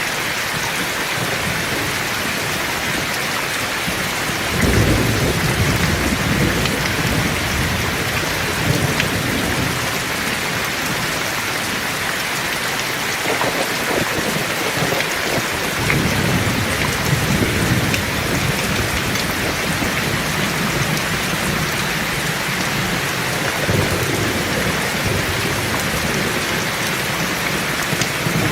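Heavy rain falling steadily, with rolls of thunder rumbling deep beneath it: one starts suddenly about four seconds in, and more come near the middle and later on.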